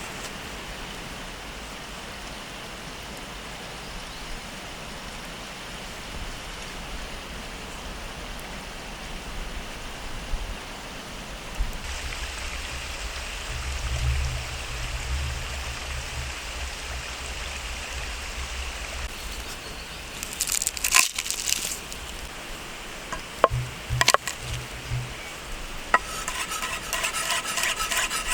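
Food frying over a campfire with a steady sizzle, a few sharp clinks of utensils on the pan, and quick rhythmic stirring starting near the end.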